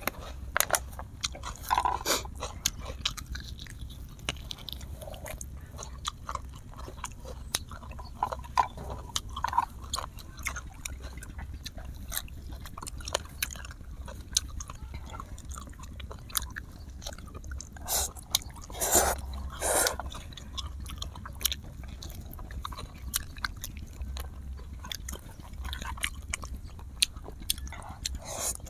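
Close-miked eating: two people chewing and biting grilled duck and instant noodles, with many small wet clicks and a couple of louder crunches about two-thirds of the way in.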